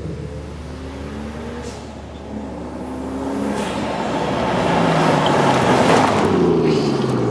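FG Falcon XR6 Turbo's turbocharged 4.0-litre straight-six, with the middle muffler deleted, being revved. Its pitch rises twice with a high turbo whistle that climbs and then cuts off sharply. The exhaust then gets louder and fuller, and its pitch falls near the end.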